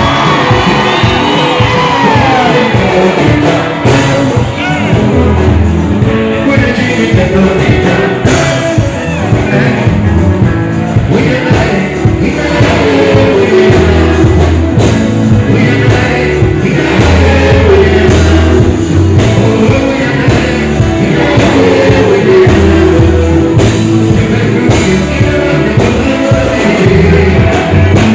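Live band music played loud over a sound system, with a singer's voice over a steady beat and heavy bass, the sound harsh and distorted.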